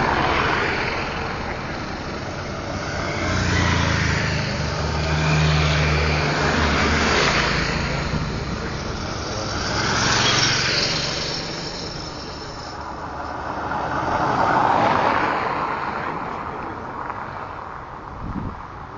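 Motorcycles passing one after another in a steady stream, each engine swelling up and fading as it goes by. A close engine holds a steady low note for a few seconds near the start.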